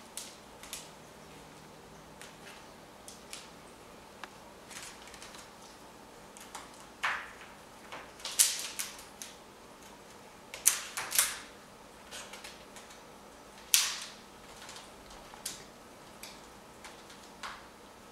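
Irregular clicks and clatters of a Congo African grey parrot rummaging through the toys in its toy box. The loudest knocks come about halfway through and again a few seconds later.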